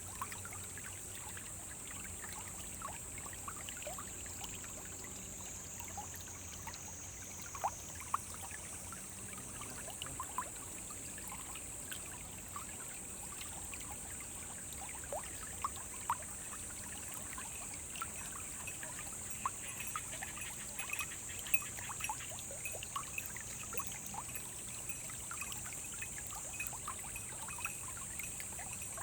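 Small forest stream trickling and splashing over stones, with many small plinks of water through it. A steady high-pitched hiss runs above it.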